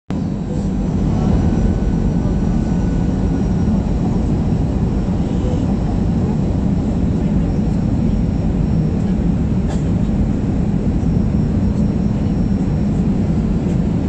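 Steady low engine and airflow noise inside an airliner's passenger cabin as the plane lands.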